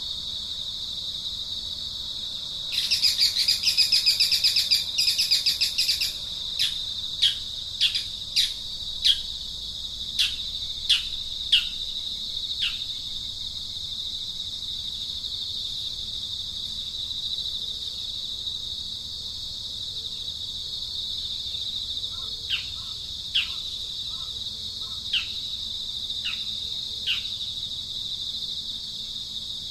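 A steady high insect drone with a bird calling over it: a loud buzzy chatter about three seconds in, then a run of sharp, downward-sliding whistled notes about two a second, and a few more scattered notes near the end.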